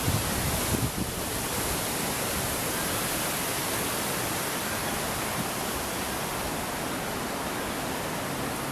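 Strong gust-front wind blowing steadily as an even hiss, buffeting the microphone with low thumps in the first second.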